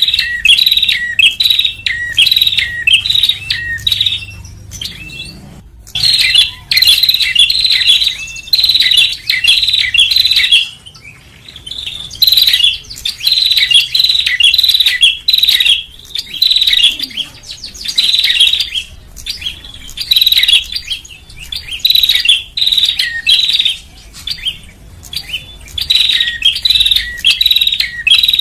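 Prinia (prenjak) calling in rapid runs of sharp, high chirps, each run lasting a second or two with short pauses between, repeating over and over: a lure-call recording for attracting small birds.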